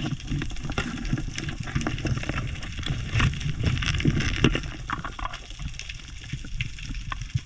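Water sloshing and gurgling, recorded close up, with many scattered short clicks and knocks.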